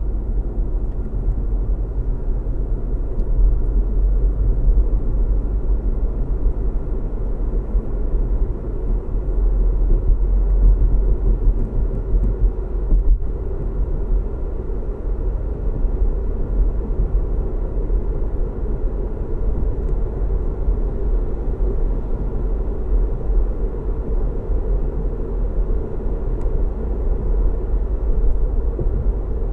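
Steady road noise and engine hum of a moving car, a constant low rumble with most of its weight in the deep bass. It drops out for a split second about halfway through.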